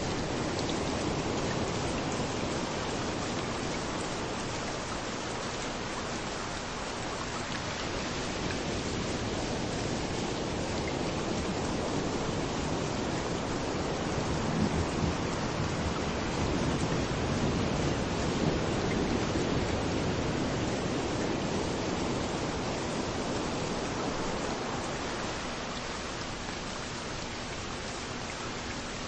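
Steady rain falling on a beach with waves rolling in, an even wash of water noise that swells slowly towards the middle and eases off again near the end.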